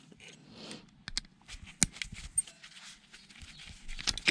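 Scattered clicks and scrapes of small metal and plastic parts being handled and prised with a screwdriver while dismantling an old electricity meter, with a sharp click about two seconds in and another at the end.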